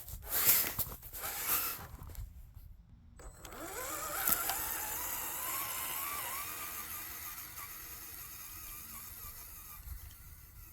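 Electric motor and geartrain of a scale CJ7 RC crawler whining as it drives: the whine rises in pitch about three seconds in, then holds with a wavering tone and slowly fades. Before that, a couple of seconds of scraping and crunching.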